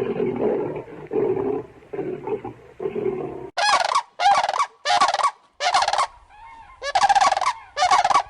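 Domestic fowl calling: a run of low, rapid, pulsing calls, then six loud, short calls in a row over the second half.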